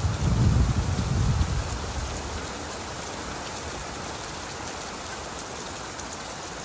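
Steady rain pattering down, with a low rumble of thunder dying away over the first two seconds.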